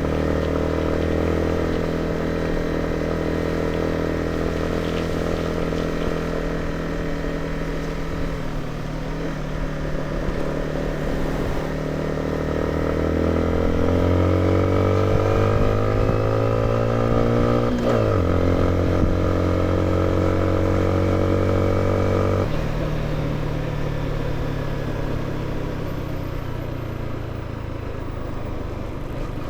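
Motorcycle engine running under way. Its pitch climbs steadily for several seconds past the middle, drops sharply at a gear change, then steps down again a few seconds later as the throttle eases.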